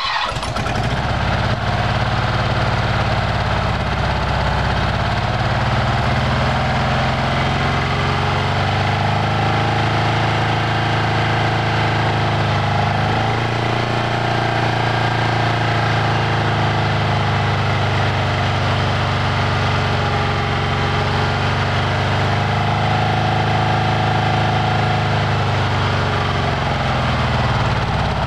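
1968 Porsche 912's air-cooled 1.6-litre flat-four engine idling steadily.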